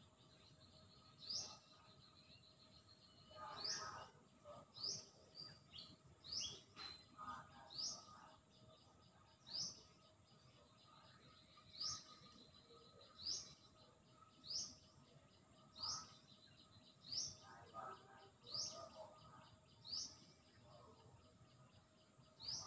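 A bird repeating one short, high, upward-sweeping chirp about every one and a half seconds, over faint outdoor background noise. Now and then there are softer, lower calls from other birds.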